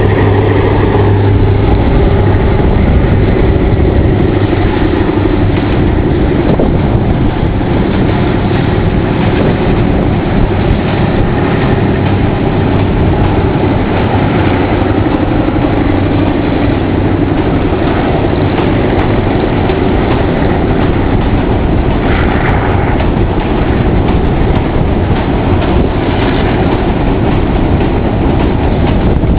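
TCDD DE24000 diesel-electric locomotive accelerating with its train across a steel truss bridge: a steady, loud engine drone over the rumble of the rolling wagons. A low engine hum fades about halfway through while the wagon rumble goes on.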